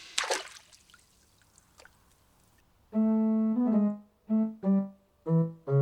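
A short splash-like burst, then a pause. After that, cartoon-style keyboard music plays one held note and then five short notes stepping down in pitch.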